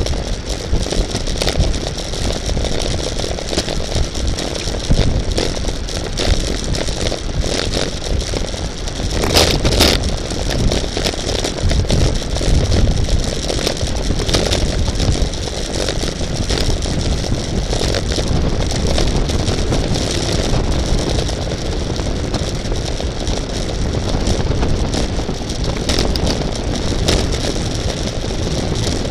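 Steady wind rush and rattle on a camera carried on a racing bicycle at speed, with a stronger gust of rushing noise about ten seconds in.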